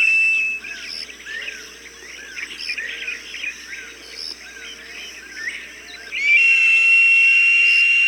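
Recorded hawk calls played to scare off other birds: a long, steady, high whistled call that stops about half a second in and another that starts about six seconds in, with a quieter stretch of short chirps repeating about twice a second in between.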